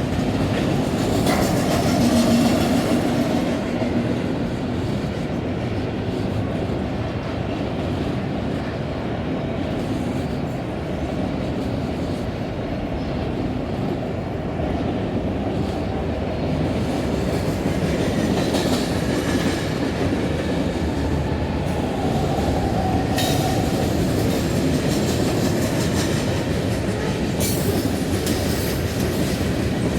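Freight cars of a long CSX freight train rolling steadily past: a continuous rumble of steel wheels on rail, with occasional sharper clicks from wheels over joints. Part way through there is a faint squeal from the wheels.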